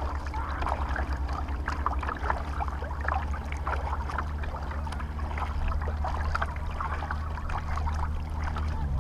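Water splashing and dripping in short irregular bits, as from a kayak paddle stroking the water, over a steady low hum that cuts off near the end.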